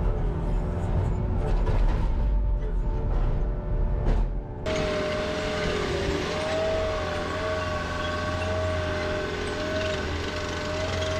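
Background music, replaced about four and a half seconds in by a skid steer's engine running steadily with a constant high hydraulic whine.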